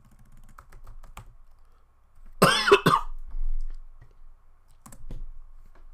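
A single loud cough, or throat-clearing, about two and a half seconds in, with light computer-keyboard typing clicks before and after it.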